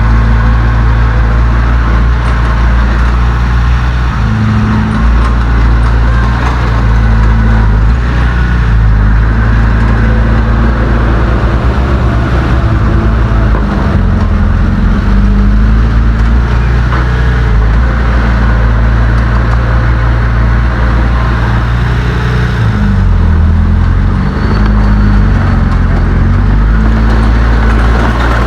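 Heavy earthmoving machine's diesel engine running loud and steady, its pitch shifting briefly around five seconds in and again around 23 to 26 seconds in.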